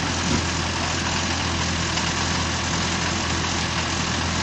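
Off-road vehicle's engine idling steadily with a constant low hum.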